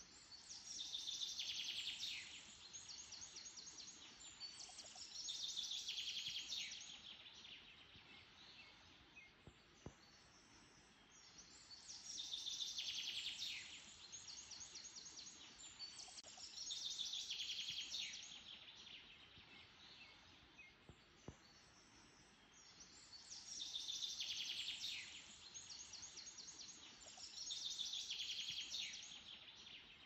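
A songbird singing the same phrase over and over, about every five seconds and in pairs: a rapid run of high notes falling in pitch, then a buzzy trill. A faint steady background hiss runs underneath.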